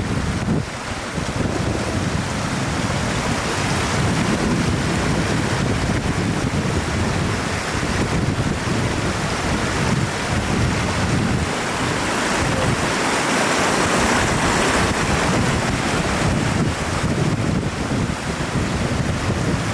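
Wind buffeting the microphone with an uneven low rumble, over a steady rushing hiss.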